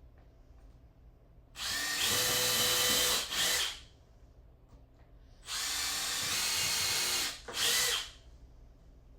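Power drill run twice, each time a steady whining run of about two seconds followed by a short extra burst, with sharp starts and stops.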